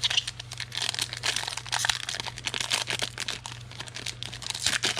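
Foil trading-card pack wrapper crinkling and crackling as it is handled, in a dense run of small irregular crackles over a low steady hum.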